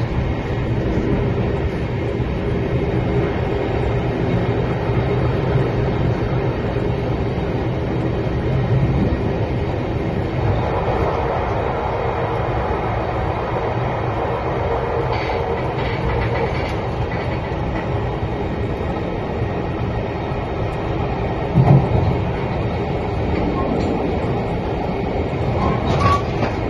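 Express passenger train running at speed, heard from inside the carriage: a steady rumble of wheels on rails with an occasional knock, the loudest about three-quarters of the way through.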